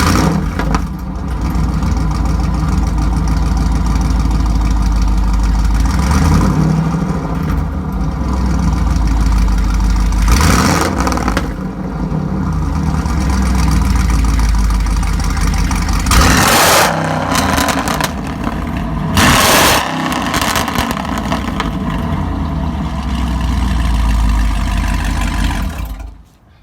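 Chevrolet Caprice PPV's 6.0-litre V8 running loud through a dual J-pipe axle-back exhaust with long-tube headers and no mid muffler or resonator. It starts up at the beginning, idles with a deep rumble, is revved sharply several times, and shuts off near the end.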